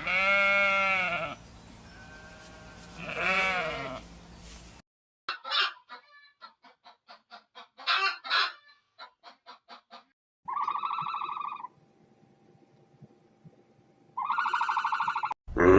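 Bleating livestock for the first few seconds. After a sudden cut, geese call in a run of short sharp cackles, then give two long buzzy honks about three seconds apart.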